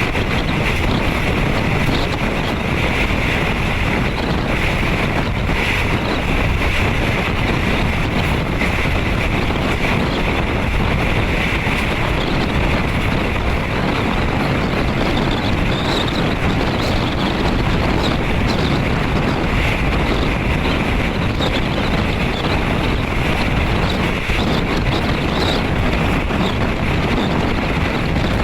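Steady rush of wind and rolling noise inside a moving passenger train's third-class coach, with a few faint ticks and rattles.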